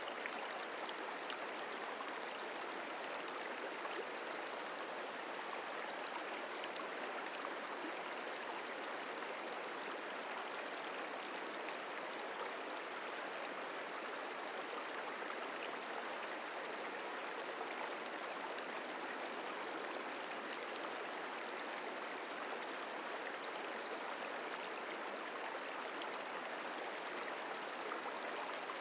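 The Merced River flowing, a steady rushing of water over rocks.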